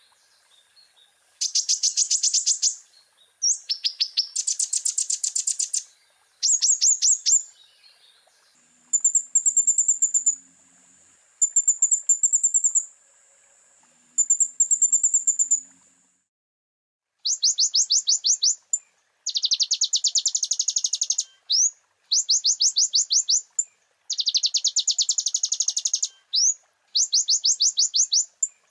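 Olive-backed sunbird (kolibri ninja) song: bursts of rapid high trilling, each lasting one to two seconds, separated by short pauses. In the middle stretch the trills are thinner and higher, over a faint steady high whistle.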